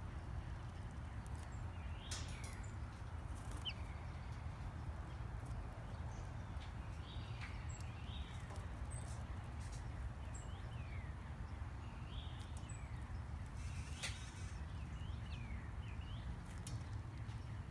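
Birds at a backyard feeder giving short chirps that slide downward in pitch, one every second or two, with scattered sharp clicks, over a steady low rumble.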